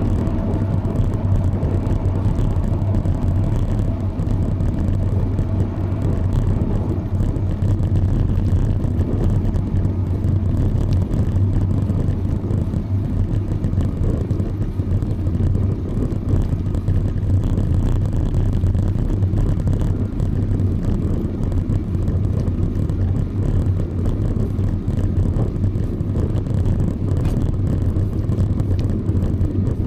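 Steady low rumble of wind on the microphone of a camera riding along on a bicycle, unbroken and even throughout.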